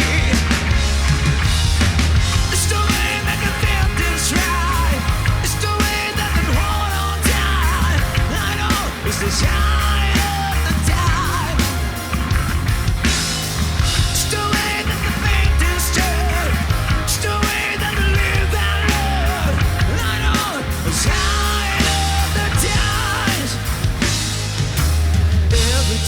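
A rock band playing loudly, with a steady beat, heavy bass and a wavering lead melody on top.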